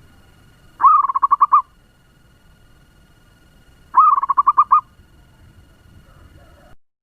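Zebra dove (perkutut) singing two quick phrases about three seconds apart, each a rapid run of about eight cooing notes: the fast-tempo song of a lure bird meant to set other zebra doves calling.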